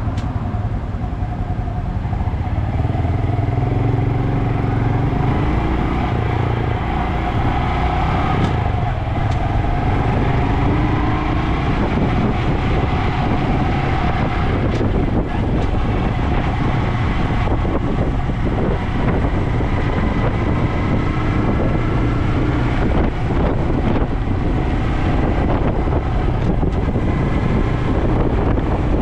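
Honda DAX125's single-cylinder four-stroke engine running through a Takegawa normal-look sport muffler. The engine note rises in pitch a few seconds in, then holds fairly steady.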